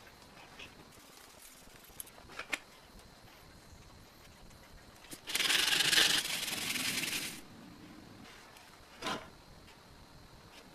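A few light clicks, then a loud rubbing, scraping noise lasting about two seconds in the middle, and one brief scrape near the end, typical of hand work on metal parts during a restoration.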